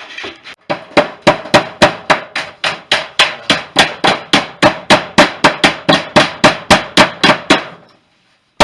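Hammering: a fast, steady run of hammer blows, about three or four a second, that stops near the end.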